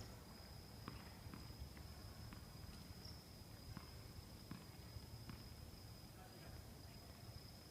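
Near silence: faint scattered ticks over a low background hum, with a steady thin high-pitched whine.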